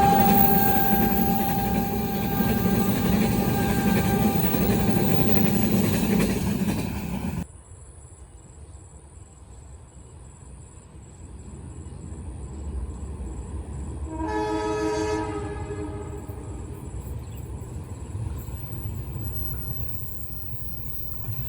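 A train passing close by with a long steady horn note that fades out; the sound cuts off abruptly about a third of the way in. Later, over a low rumble, a train horn sounds once, briefly, for about a second and a half.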